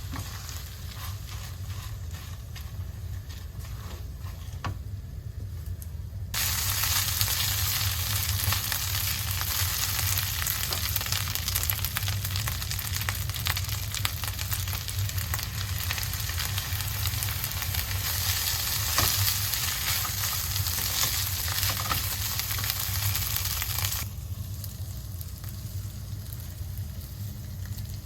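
Food sizzling and crackling in a frying pan. It starts suddenly a few seconds in and stops abruptly near the end, over a steady low hum.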